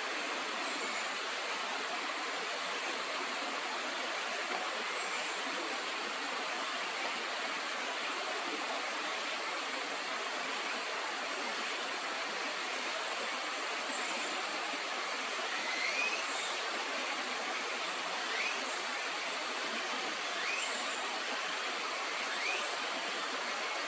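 Steady rush of flowing river water, with a few short, thin rising bird chirps in the second half.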